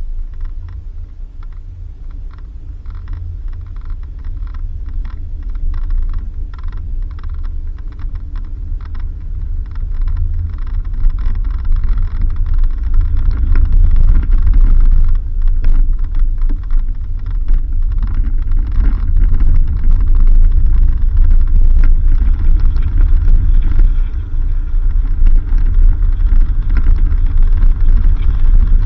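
Off-road vehicle driving along a dirt road: a heavy, steady low rumble with many small clicks and rattles from the rough surface, growing louder about eleven seconds in.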